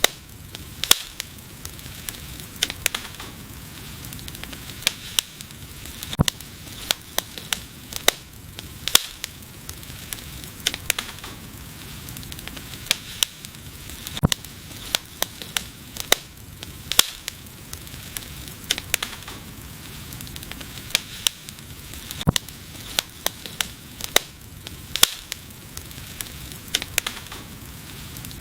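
Wood fire crackling: irregular sharp pops and snaps, several a second, over a soft steady hiss of burning logs.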